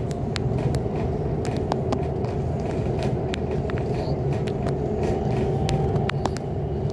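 Passenger train running, heard from inside the carriage: a steady low rumble with frequent sharp clicks and rattles scattered through it.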